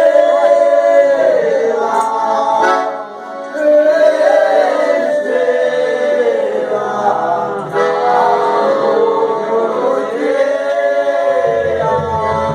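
Folia de Reis singers in a group, male voices singing long held, bending notes together in chorus. Near the end the voices give way to a steady pulsing instrumental accompaniment.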